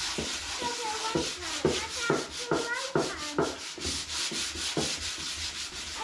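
Sandpaper rubbed by hand over a painted drawer to strip the white paint: repeated scratchy strokes, about two to three a second.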